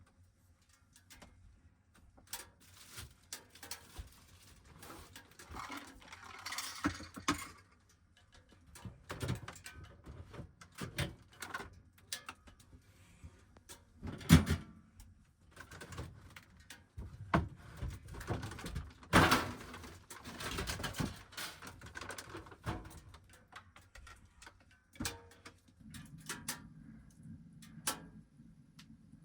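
Scattered clicks, knocks and clatter of objects being handled in a small enclosed space, with two sharper knocks in the middle. A low steady hum starts near the end.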